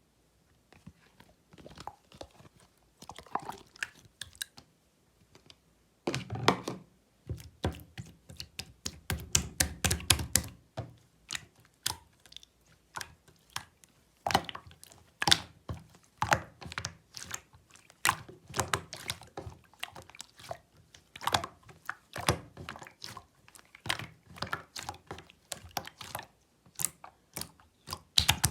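Clear slime being squished and poked by hand: a run of irregular wet clicks and pops that starts about a second in and grows denser and louder from about six seconds.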